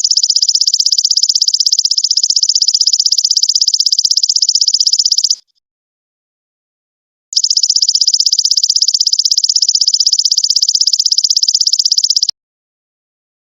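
Belalang emas ('golden locust') insect calling: a loud, high, rapidly pulsed buzz in trills of about five seconds. It breaks off after about five seconds, resumes after a pause of about two seconds, and stops again about a second before the end.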